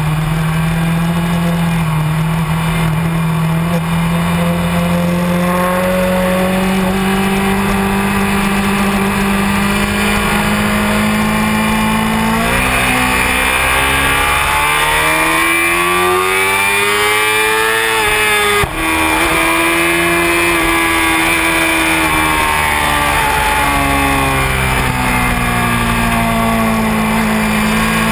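Honda CBR600F4i's inline-four engine running hard on track. Its pitch climbs slowly for a long stretch, rises to a peak about two-thirds of the way in, then drops away after a sharp click as the bike slows, and climbs again near the end.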